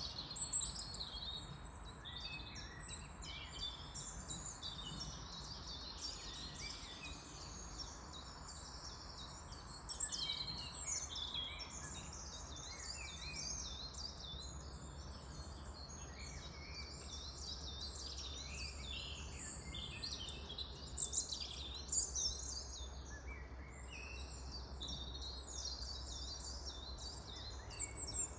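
Songbirds chirping and singing continuously, many short high calls overlapping, over a steady low background hum.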